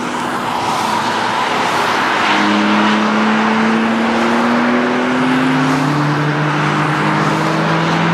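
Car engine under acceleration on a race track, its note climbing slowly and dropping to a lower pitch about five seconds in, over road and wind noise.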